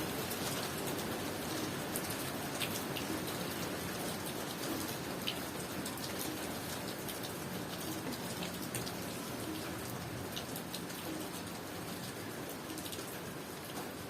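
Steady tropical rain falling, with scattered individual drops ticking sharply over the even hiss.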